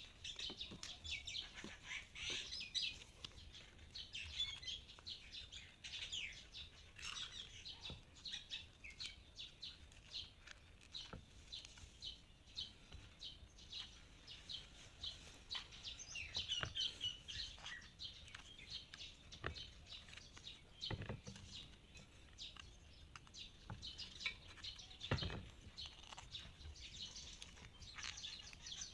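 Small birds chirping and twittering continuously, faint, with a couple of dull low knocks partway through.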